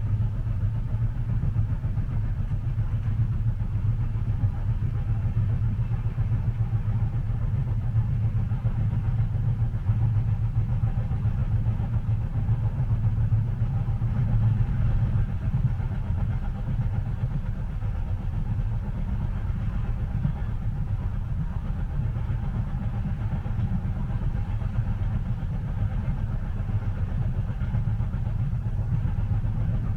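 Steady low rumble of a moving train, heard from inside a passenger cabin.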